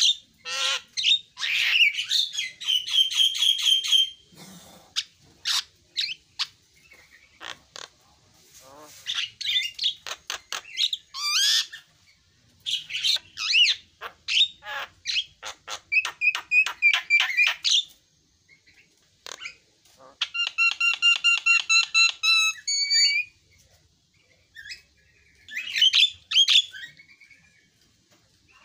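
A Javan myna (jalak kebo) singing a varied, chattering song of rapid clicks, harsh notes and whistles, in phrases broken by short pauses. About two-thirds of the way through comes a fast run of ringing, evenly repeated whistled notes.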